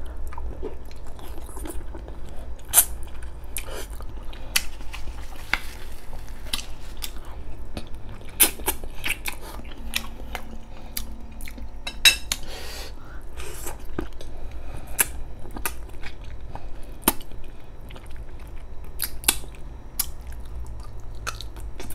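A man chewing braised pork spare ribs, biting the meat off the bone, heard close up: wet chewing with many short, sharp mouth clicks scattered throughout.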